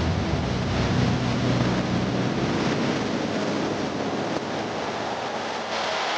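Roll-over automatic car wash spraying water over a car: a steady rushing hiss of water jets, with a low hum under it that fades out about halfway through.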